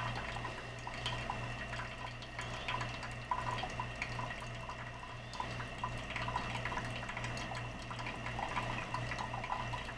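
Bunn 10-cup drip coffee brewer brewing: hot water streaming through the basket and coffee trickling and dripping into the carafe, a steady wet pattering over a low steady hum.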